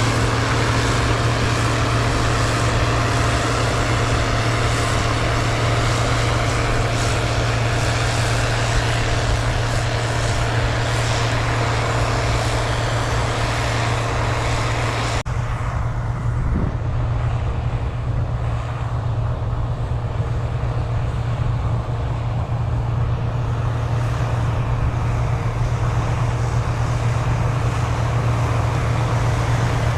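Large diesel engine of heavy farm machinery running steadily with a constant low drone. About halfway through, the hiss above it drops away abruptly, leaving a more muffled engine sound.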